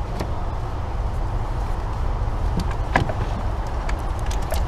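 Scattered clicks and light knocks of a portable jump starter being handled and taken out, the clearest about three seconds in, over a steady low rumble.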